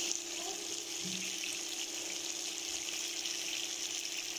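Chicken pieces in masala sizzling steadily in an aluminium karahi on the heat, with a constant low hum underneath.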